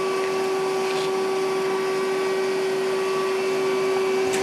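Steady machine hum with a constant tone over a hiss, from the Samsung PL10 CNC lathe sitting powered up and idle.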